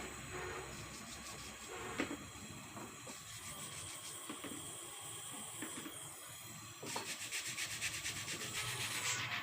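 Steady rubbing and scraping on a hard surface, turning into a fast, even rasping rhythm about seven seconds in.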